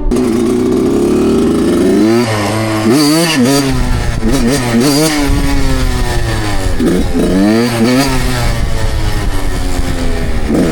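Suzuki two-stroke dirt bike engine under way. It holds a fairly steady note for about two seconds, then the revs climb and fall again and again, dropping low about seven seconds in before climbing again.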